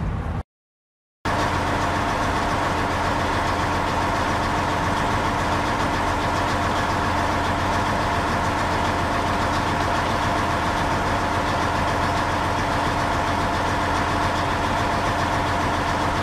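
Car engine idling, heard from inside the cabin: a steady hum that holds one pitch throughout, starting about a second in.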